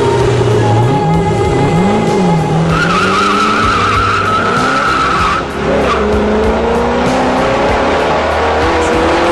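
Sports car engine revving, its pitch sweeping up and down, with tires squealing for a couple of seconds in the middle.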